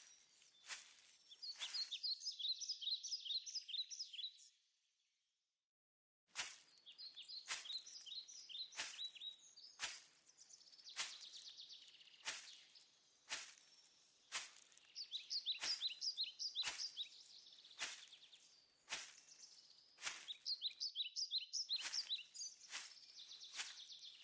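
A songbird repeating a rapid phrase of quick, high, falling notes, each phrase lasting about two seconds, over sharp clicks about once a second. The sound drops out completely for about two seconds, roughly four and a half seconds in.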